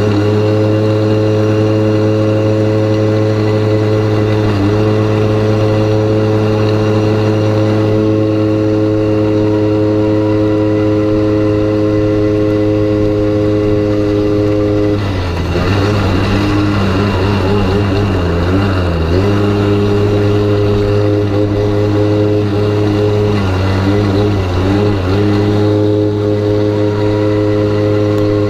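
Malaguti 40 cc two-stroke pit bike engine heard on board, held at steady high revs for about fifteen seconds, then its pitch dips and rises several times as the throttle is eased and opened, twice, before settling back to a steady note.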